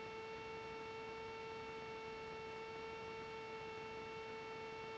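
Faint, steady electrical hum at one unchanging pitch with a row of higher overtones.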